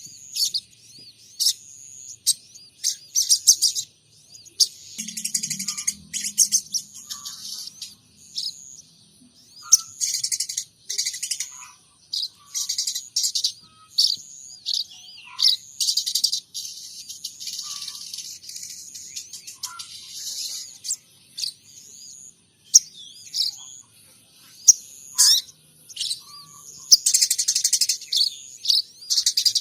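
A sogon trotol songbird singing a long, busy run of high chirps and fast trills with short pauses, mixing in imitations of munia and Eurasian tree sparrow calls.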